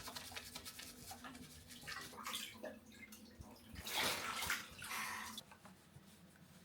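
Shower water running and splashing in uneven gushes, loudest about four seconds in.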